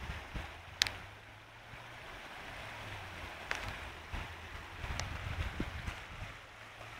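Steady rushing of rainwater, with wind rumbling on the microphone and a few sharp clicks.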